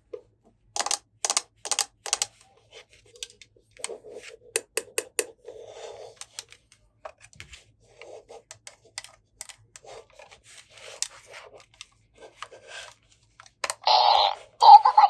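Small plastic toy pieces being handled: a run of light, irregular clicks and taps with some brief scraping and rubbing. A louder, fuller sound comes in about a second before the end.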